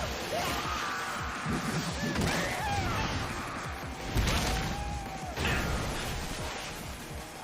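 Anime action-scene soundtrack: music with shouting voices and crashing impacts, the hardest hits about four to five seconds in.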